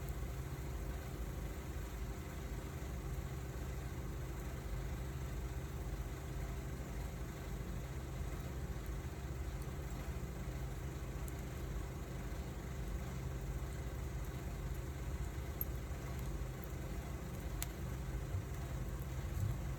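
Wood fire burning: a steady low rumble with a few faint crackles, mostly in the second half.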